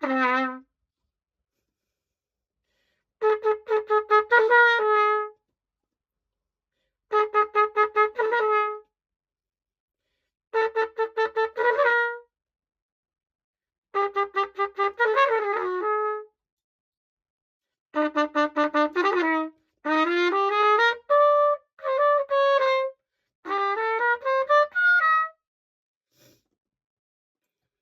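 Pocket cornet playing short phrases of quickly tongued repeated notes, separated by pauses of a second or two. The last phrases climb in rising runs, and the playing stops a little before the end.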